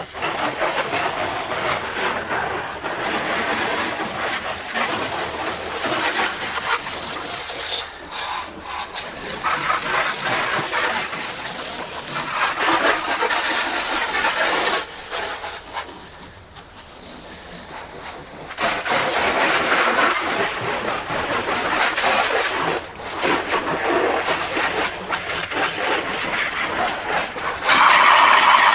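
Water jet spraying against a car's wheel and brake caliper, a steady hiss that stops and starts, with a longer break about fifteen seconds in.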